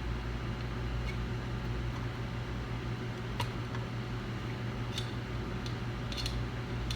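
Steady electrical hum with fan noise, with a few faint light clicks scattered through it.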